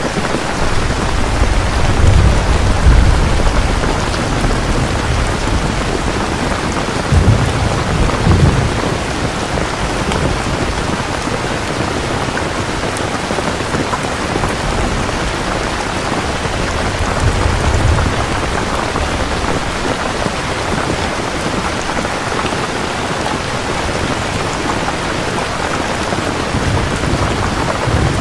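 Steady heavy rain with several low rolls of thunder. The loudest comes about two to three seconds in, another around seven to eight seconds, a weaker one later, and one more near the end.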